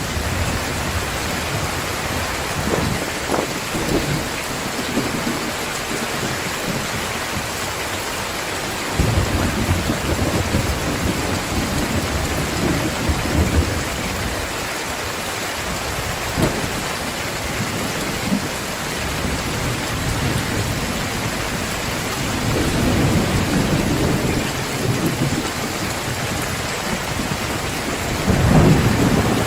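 Heavy rain falling steadily, with low rolls of thunder swelling and fading several times, the loudest near the end.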